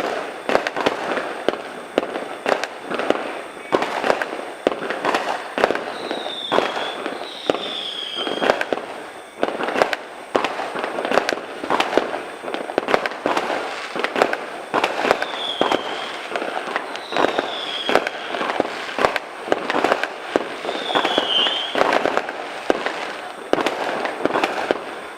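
Fireworks going off in a dense, unbroken string of bangs, several a second.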